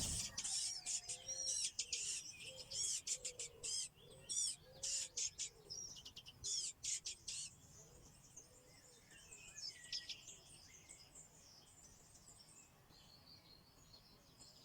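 Birds chirping in quick, high-pitched notes, dense and loud for about the first seven seconds, then thinning out to fewer, fainter calls.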